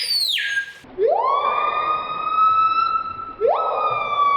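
Screaming piha calling with loud whistled notes. A high whistle drops away in the first half second, then comes a long note that swoops upward and holds for over two seconds, then a second one that starts high and slides down near the end, like a siren.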